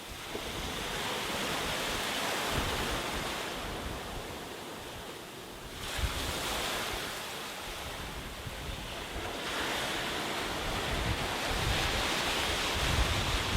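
Sea waves breaking and washing up a beach, the surf swelling and ebbing in slow surges, with wind buffeting the microphone as a low rumble.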